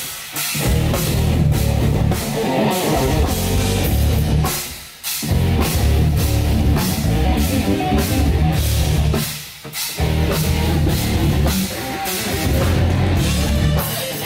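A rock band playing with a drum kit and guitar, heavy and loud, with two brief breaks in the music about five and ten seconds in.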